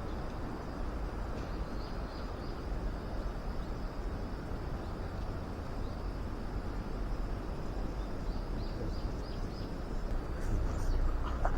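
Outdoor ambience: a steady low rumble, with two short runs of faint, high, quick chirps from small birds.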